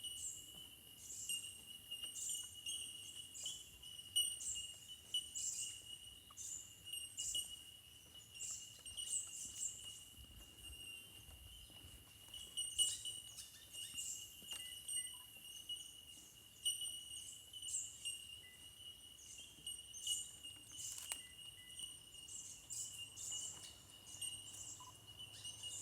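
Small birds chirping in quick, high, tinkling calls, several a second, over a steady high-pitched insect-like whine.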